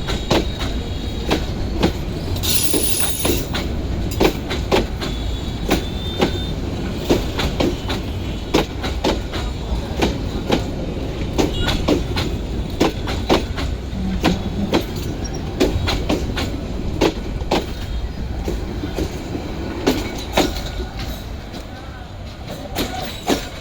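Passenger train coaches rolling past, wheels clacking irregularly over rail joints over a steady low rumble. A brief high hiss comes about two and a half seconds in, and the sound eases slightly near the end.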